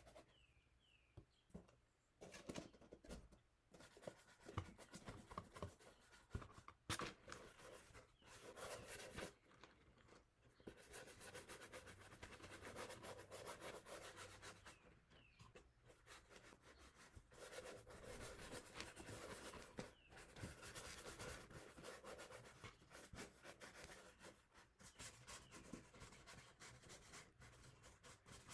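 Faint, irregular scratchy strokes of a paintbrush brushing paint onto cardboard.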